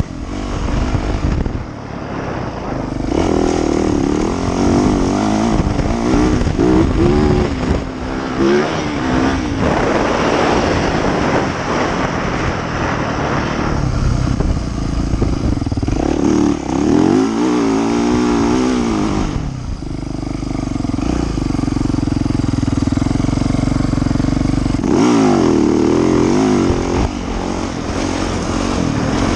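Yamaha YZ450F dirt bike's single-cylinder four-stroke engine while riding, the engine note rising and falling again and again as the throttle opens and closes, with a couple of brief easings off.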